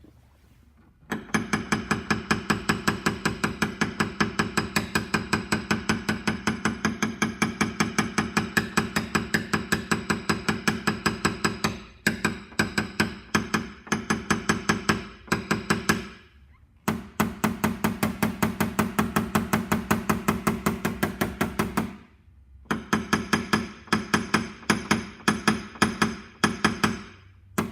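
Rapid hammer taps on a knockdown against a 2014 Mitsubishi Outlander's sheet-metal door panel, several taps a second, the panel ringing with each one: tapping down high spots to blend out a door dent. The taps come in runs with short pauses between them.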